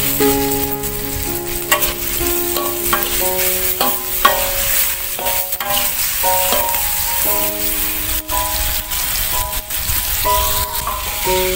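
Anchovies, shallots, chillies and sliced terung asam sizzling in a hot steel wok, with a metal spatula scraping and clacking against the pan now and then as they are stirred. A background music melody plays throughout.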